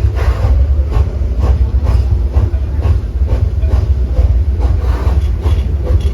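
1901 Dickson-built steam locomotive working hard, its exhaust chuffing about twice a second over a heavy low rumble from the moving train. It is pulling upgrade on wet rails, where its wheels have been slipping.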